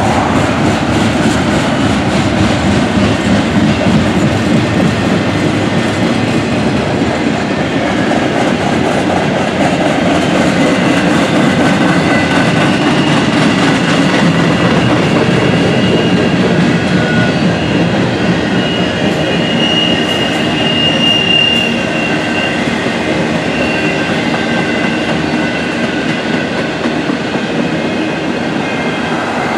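Freight cars of a passing train rolling by, a steady rumble and clatter of steel wheels on the rails. A faint high wheel squeal rises above it around twenty seconds in.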